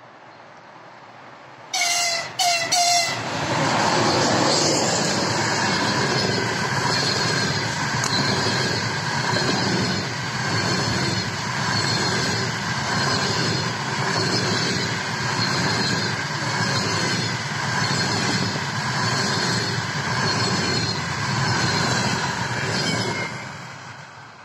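EP20 electric locomotive sounding three short horn blasts about two seconds in, then the locomotive and its double-deck passenger coaches passing close at speed, wheels clattering over the rails in a regular rise and fall, fading away near the end.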